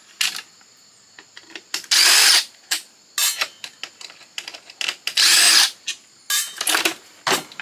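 Power drill/driver running in two short bursts, each about half a second, backing screws out of a fax machine's casing during disassembly. Between the bursts come scattered clicks and knocks of parts being handled.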